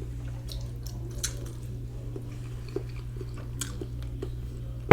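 Close-miked chewing of a fried egg, with scattered wet mouth clicks and smacks over a steady low electrical hum. A single sharp, loud knock comes at the very end.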